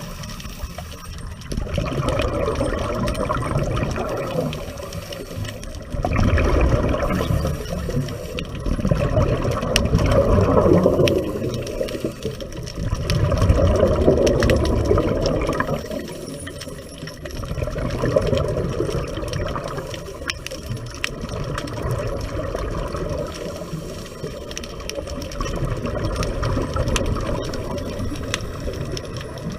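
Underwater scuba breathing: the diver's regulator and exhaled bubbles rush in swells about every three to four seconds.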